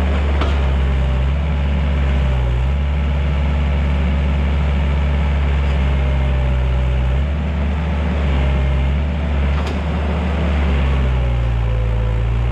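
Takeuchi TL130 compact track loader's diesel engine running under changing load, its note dipping and recovering a few times as the machine works, with two brief sharp knocks.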